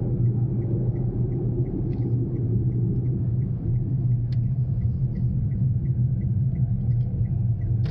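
Steady low rumble of a Daihatsu Mira Cocoa running, heard from inside the car's cabin, with a light, even ticking about three times a second.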